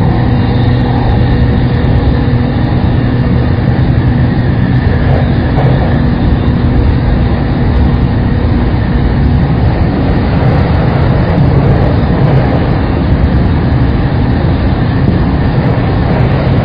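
Saikyo Line commuter rapid electric train running at a steady speed: even rumbling wheel and track noise with a constant motor hum.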